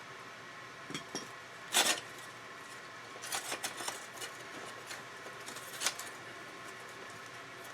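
Scattered short metallic clicks and clinks of pliers working a rust-seized bicycle chain, the loudest about two seconds in and a quick cluster in the middle, over a faint steady hum.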